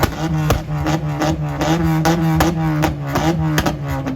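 Car engine held on a two-step launch limiter: a steady drone broken by sharp exhaust bangs, about four a second, like gunshots.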